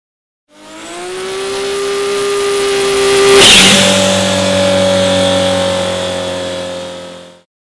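Race car engine running hard at high revs, fading in. About three and a half seconds in a loud burst comes and the engine note jumps to a new pitch, then it holds and fades out.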